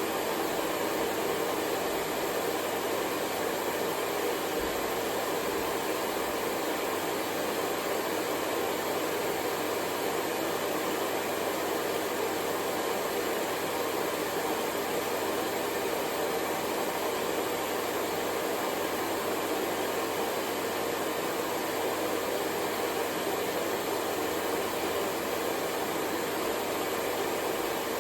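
Hair dryer running continuously: a steady, even rush of blown air with no change in pitch or level, used as white noise.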